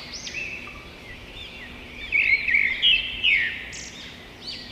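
Several birds calling in quick, repeated rising and falling chirps, louder from about two seconds in.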